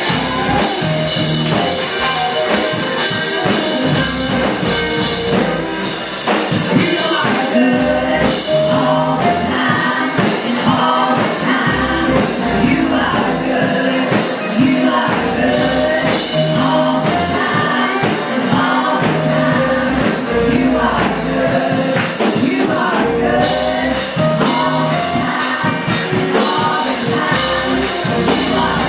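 Live gospel praise music: several voices singing over a band.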